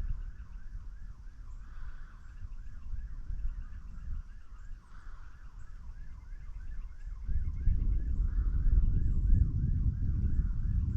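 A distant emergency siren in a fast yelp, its pitch sweeping up and down about three times a second. Wind rumbles on the microphone and gets louder about seven seconds in.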